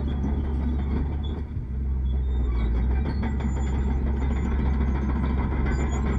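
Heavy diesel engine of earthmoving machinery running steadily, a deep low rumble with a brief dip about one and a half seconds in.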